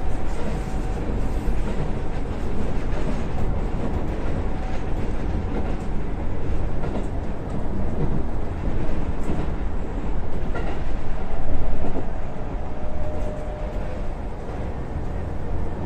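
Keisei 3700 series electric train running at speed, heard from inside: a steady rumble of wheels on rail, swelling louder about eleven seconds in.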